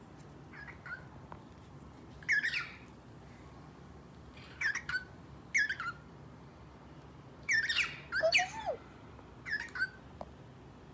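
Pet bird making short, sharp calls, about seven of them spaced irregularly, with the loudest pair near the end.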